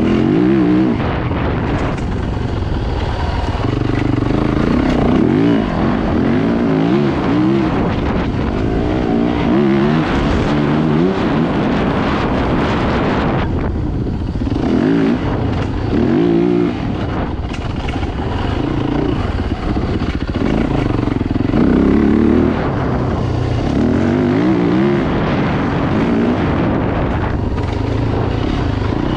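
Dirt bike engines revving up and down again and again, the pitch rising and falling with each throttle change, running without a break.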